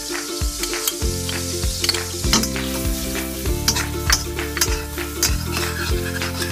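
Chopped garlic and onion sizzling in hot margarine or oil in a pan while a spatula stirs, scraping and tapping against the pan many times. Background music with sustained notes plays underneath.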